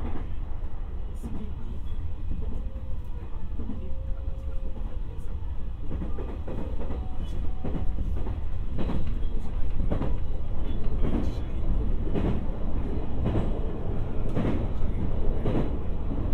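Inside a moving electric commuter train car: the steady low rumble of the train running on the rails. From about six seconds in, the wheels knock over rail joints every half second to second.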